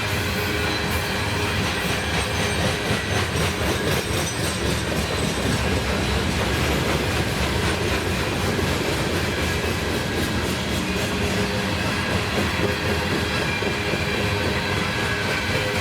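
Freight train rolling past, its steel wheels clattering steadily on the rails.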